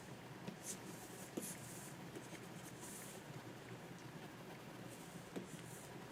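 Plastic stylus nib of a Wacom pen display drawing on its screen: a run of short, soft scratchy strokes with a few light taps, the longest stroke about three seconds in.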